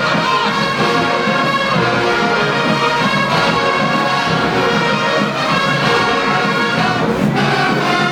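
Marching band playing, with brass instruments to the fore in full, sustained chords.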